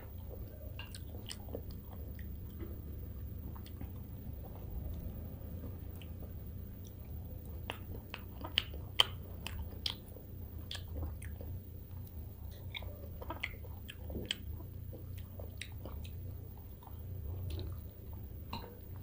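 Close-up chewing of mouthfuls of rice and fish curry eaten by hand, with many short wet mouth clicks and two sharper clicks about nine seconds in. A low steady hum runs underneath.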